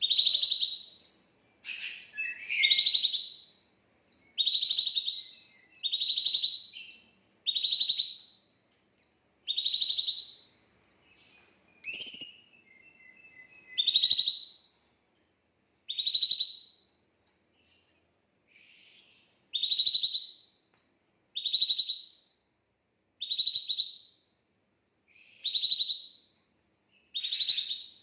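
A songbird repeating the same short chirping call about every two seconds, each call ending on a sharp high note; once, about twelve seconds in, it gives a different rising call followed by a lower trill.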